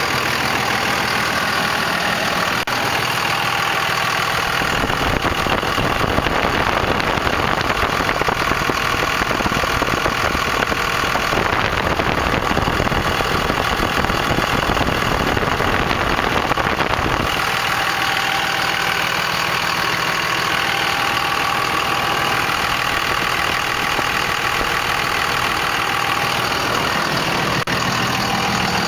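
2001 Cummins 24-valve turbo diesel idling through a straight-piped 4-inch exhaust with no muffler, with diesel clatter. For about twelve seconds from about five seconds in, the sound is louder and deeper.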